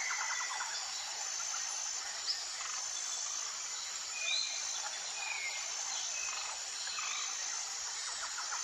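Tropical forest ambience: a steady insect chorus with a high, evenly repeating trill, and a few short bird chirps about four to five seconds in. A single brief click comes a little over two seconds in.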